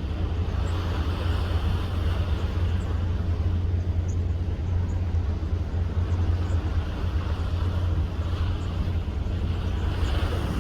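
Steady low rumble of a ship underway, with a hiss of wind and sea noise over it.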